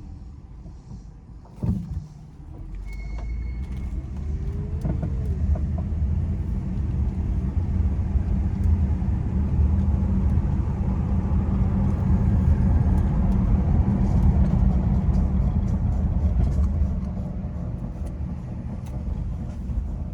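Inside the cabin of a 2008 Mazda CX-9 driving slowly: low road and drivetrain rumble that builds, holds, then eases off near the end as the car slows. A sharp knock comes about two seconds in, and faint scattered ticks come in the later part. The owner is chasing a creak that is loudest when slowing or turning left.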